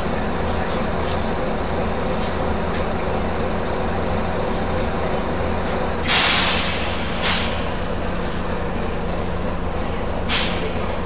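Volvo B9TL double-decker bus with a steady low engine drone, its compressed-air system hissing three times: a loud release about six seconds in that lasts about a second, a shorter one a second later, and another near the end.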